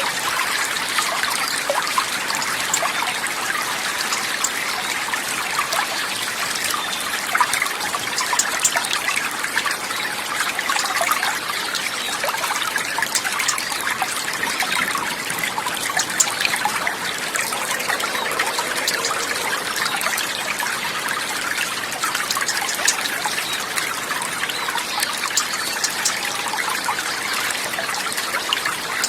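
Water trickling and babbling over stones, a steady even rush with fine crackling splashes and no pauses.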